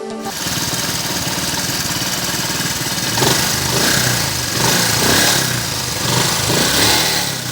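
Honda CD70's small single-cylinder four-stroke engine running after assembly, idling and then revved up in several short blips.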